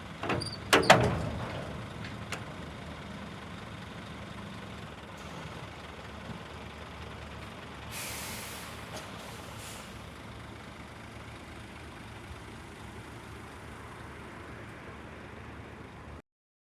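Scania R490 truck's diesel engine idling steadily. A burst of loud knocks and clanks comes about a second in, and a short hiss of air, like an air-brake release, comes about halfway through. The sound cuts off suddenly near the end.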